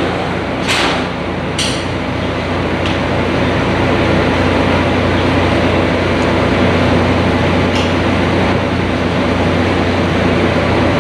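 Steady low drone of a sightseeing boat's engine heard on board, with a constant rushing noise over it and a few short sharp ticks near the start.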